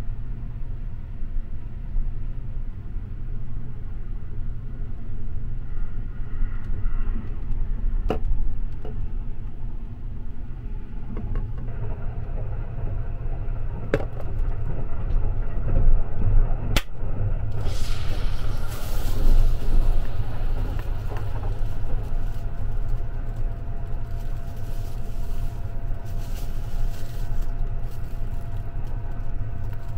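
Steady low rumble of the Sunrise Express sleeper train running, heard inside a compartment. About seventeen seconds in, a sharp snap followed by a few seconds of fizzing hiss: a beer can being opened.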